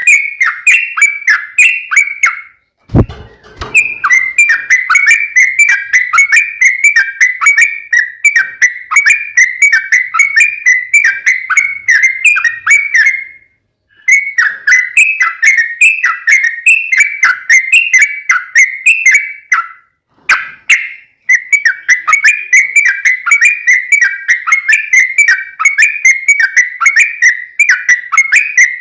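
Yellow-vented bulbul ('trucukan') song: long, loud runs of rapid chattering notes, several a second, the long rolling 'ropel panjang' style used as a lure to set other bulbuls singing. The runs break briefly near 3, 13 and 20 seconds in, with a low thump at the first break.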